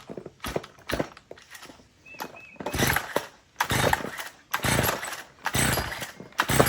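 Recoil starter cord on a Stihl FS55 two-stroke trimmer pulled five times, about a second apart, each pull a short rasping whirr as the engine cranks over against strong compression. It does not catch between pulls. A few light clicks come before the first pull.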